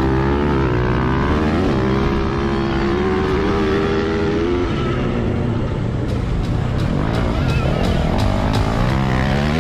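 Motocross dirt bike engines revving, their pitch rising and falling, with music underneath.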